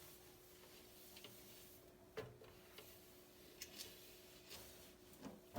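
Near silence: room tone with a faint steady hum and a few soft, scattered clicks, the clearest about two seconds in.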